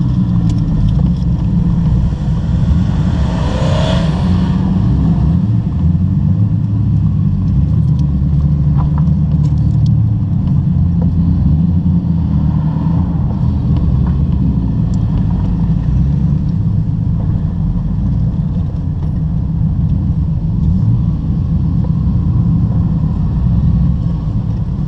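TVR sports car engine running as the car is driven, a steady low drone from inside the car. About four seconds in, a brief rush of noise rises over it.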